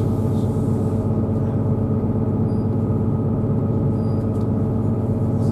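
Inside a diesel passenger train running along the line: a steady rumble of engine and wheels on the track, with a constant hum of several held tones.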